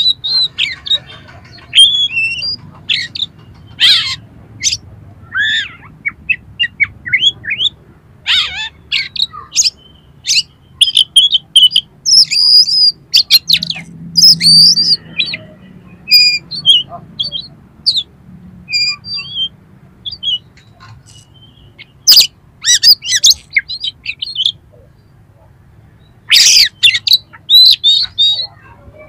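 Oriental magpie-robin (kacer) singing a fast, loud run of short chirps and harsh squawking notes, broken by a few brief pauses. It is the rough, mimicked material that keepers play to rouse other magpie-robins.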